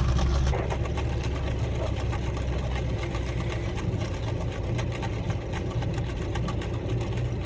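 Car engine running, heard from inside the cabin as a steady low hum, with frequent small clicks and rattles over it.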